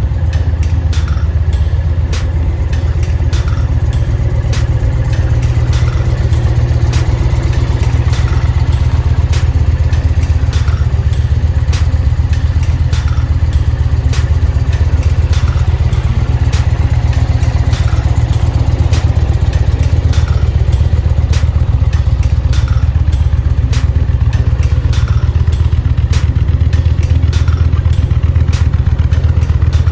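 2023 Indian Challenger Limited's liquid-cooled V-twin engine idling steadily, with regular light clicks over the low, pulsing engine note.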